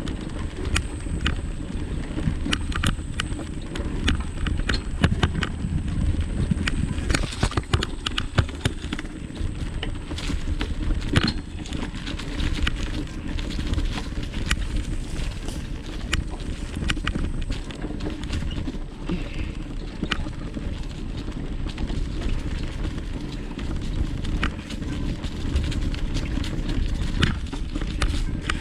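Bicycle ridden along a rough dirt trail: a steady low rumble with frequent small clicks and rattles.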